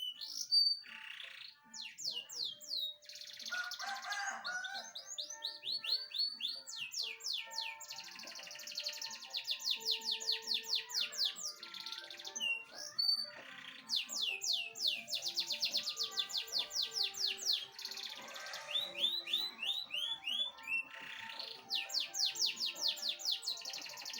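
Domestic canary singing a long song of fast trills: runs of rapidly repeated sweeping notes, several a second, broken by brief pauses between phrases.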